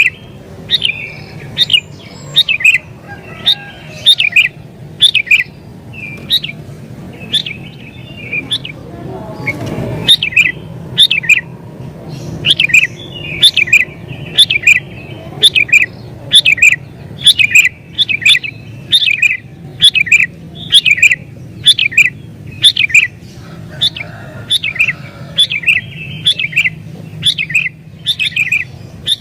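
Sooty-headed bulbul (kutilang) singing persistently: a long, rapid run of short, sharp chirping notes, about two a second, with softer warbled phrases between them.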